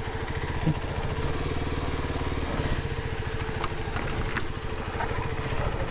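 Kawasaki KLX 300's single-cylinder four-stroke engine running steadily at low revs, with a few faint clicks over it.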